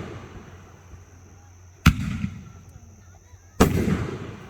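Fireworks going off in a display: two sharp bangs about a second and three quarters apart, each followed by a rumbling, fading tail.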